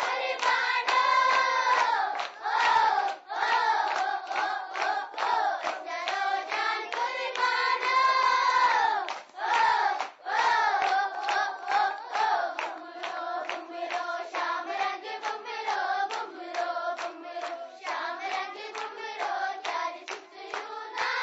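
A group of children singing a song together, clapping their hands in rhythm.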